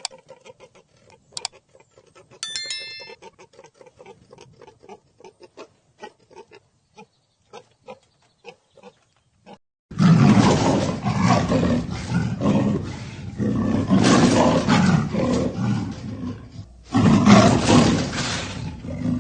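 Scattered soft clicks with a brief bell-like ring a couple of seconds in, then from about halfway a loud, rough animal roar that breaks off briefly and resumes near the end.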